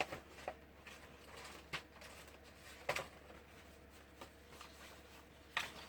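Rummaging through craft supplies on a table: faint rustling with a few scattered sharp clicks and taps as things are moved and picked up, over a low steady hum.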